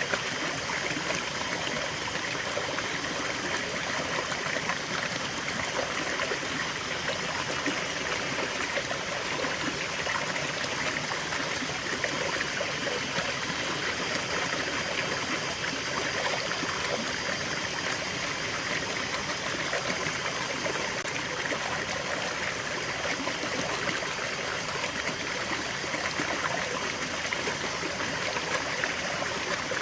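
Small stream running steadily, water trickling and gurgling over stones.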